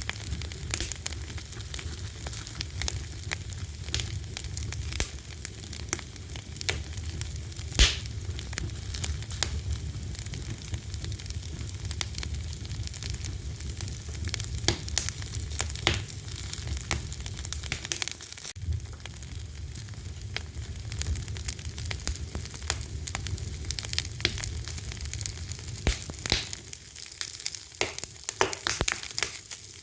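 Fire crackling and popping in quick, irregular clicks over a steady low rumble, with one loud pop about eight seconds in.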